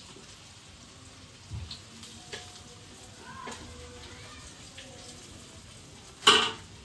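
Cassava-and-coconut fritters frying in oil in a wok, a low steady sizzle with a few light knocks of the spatula against the pan. A short, loud burst of noise comes about six seconds in.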